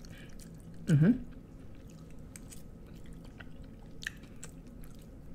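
Close-up chewing and mouth sounds of someone eating cheese-sauced ramen noodles topped with Takis crumbs: many small wet clicks and ticks. There is a short hummed "mmm" about a second in.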